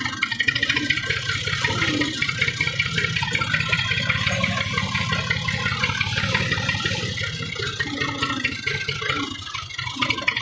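Massey Ferguson 240 tractor's three-cylinder diesel engine running steadily, with a fast even firing pulse.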